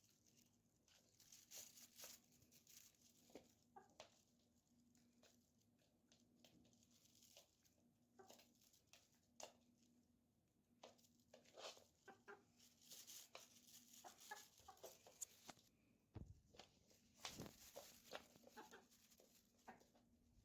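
Faint pet chicken sounds: soft clucks among scattered light taps and scratches.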